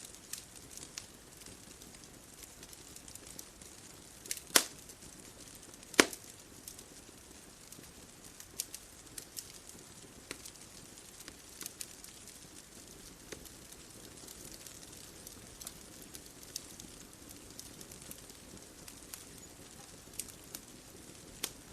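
Wood fire crackling: scattered sharp pops and snaps over a soft steady hiss, with two much louder pops about four and a half and six seconds in.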